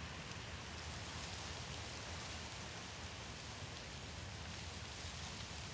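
Steady faint hiss with no distinct events.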